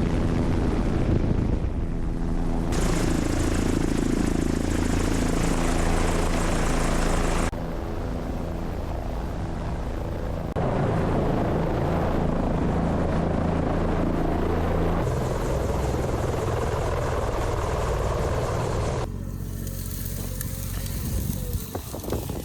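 Helicopter engine and rotor running steadily in flight, the sound shifting abruptly in tone and loudness every few seconds. It is quieter and more fluttering near the end.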